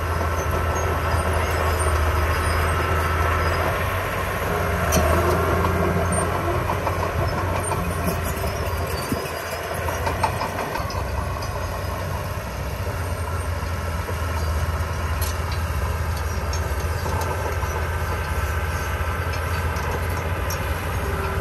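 Diesel heavy construction machinery running: a steady low engine drone with scattered sharp clanks.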